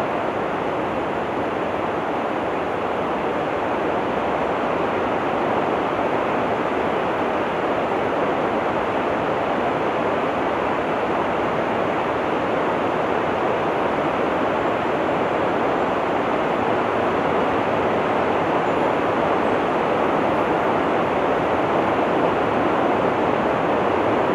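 Rain falling in a steady, even hiss, growing slightly louder toward the end.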